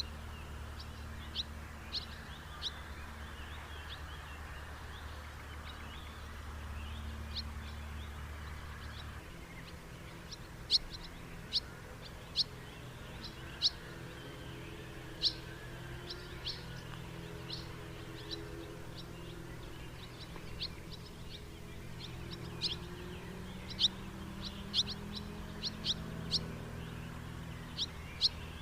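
House martins calling: short, sharp chirps repeated at irregular intervals, over a steady low background hum.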